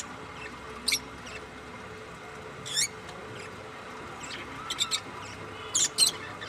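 Pet budgerigars giving short, high-pitched chirps every second or two, with a quick run of several chirps near the end, over a steady faint hiss.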